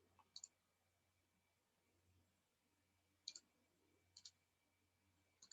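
Faint computer mouse clicks, in pairs, a few times over near silence.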